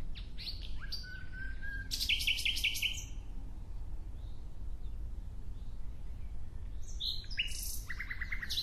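A songbird singing two song phrases, one near the start and one near the end, each a mix of quick whistled notes and a fast trill of repeated notes.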